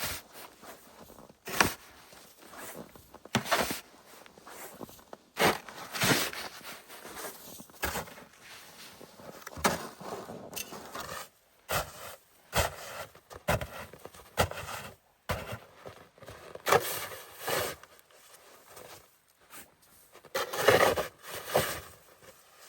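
Irregular scrapes, rustles and sharp knocks of someone moving about and handling things by hand, with a few louder knocks.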